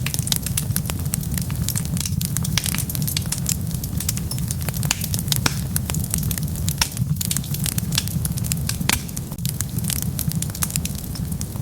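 Wood fire burning, with a steady low rumble of flames and frequent sharp crackles and pops, a few louder than the rest.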